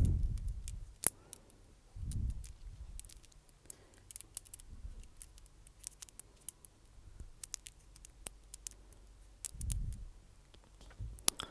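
Close-miked ASMR mouth sounds: many small, sharp, wet clicks and pops scattered irregularly, with a few soft low thuds about at the start, two seconds in and near the end.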